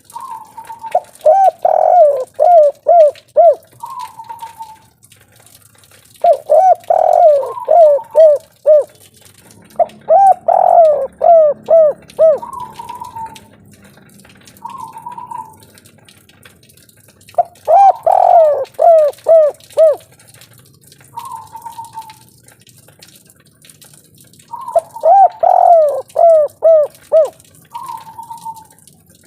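Spotted dove (tekukur, derkuku) cooing in its 'kuk 3' song type. Five loud phrases of quick falling coo notes come a few seconds apart, with pauses between them.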